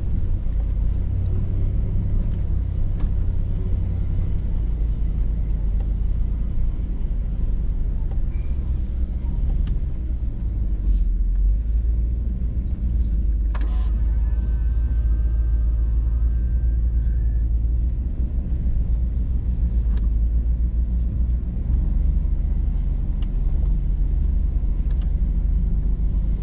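Hummer H2's V8 engine running with a steady deep rumble, heard from inside the cabin as the truck crawls over rough trail, with a few sharp knocks. About halfway through, a high squeal lasts for several seconds.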